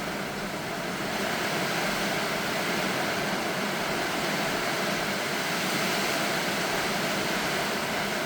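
Steady rain falling, an even hiss that grows a little louder about a second in.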